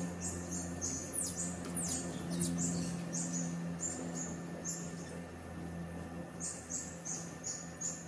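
High-pitched bird chirps, short notes repeating about three or four times a second, with a few quick downward-sweeping notes about two seconds in and a brief pause a little past the middle, over a faint low steady hum.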